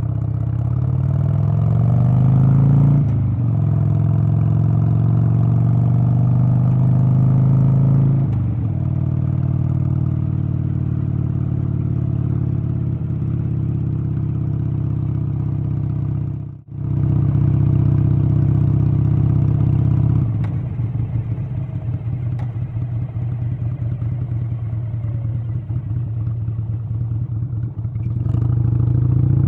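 An engine running, its pitch sliding up and down as it speeds up and slows in the first several seconds, then running on with a rougher, pulsing note. The sound cuts out briefly a little past the middle.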